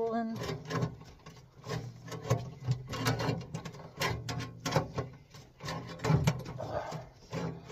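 Hand work on sheet-metal ductwork: irregular clicks, knocks and scraping of metal being handled, likely crimping, over a steady low hum.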